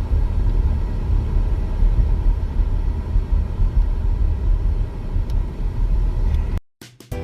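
Buick running, a steady low rumble heard from inside the car, cut off abruptly about six and a half seconds in.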